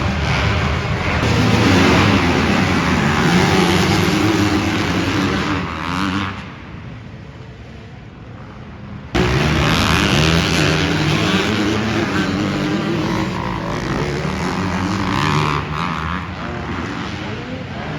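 Dirt bike engines racing, revving up and down as the bikes go around the track. Over a few seconds past the middle the engines fade quieter, then they come back loud all at once.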